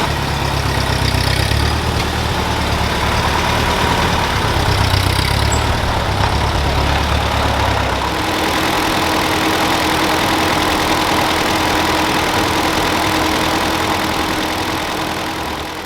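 1950 Ford 8N tractor's four-cylinder flathead engine idling steadily, warming up to temperature after a head gasket replacement. About halfway through, the deep rumble drops away and a steadier, lighter running sound carries on.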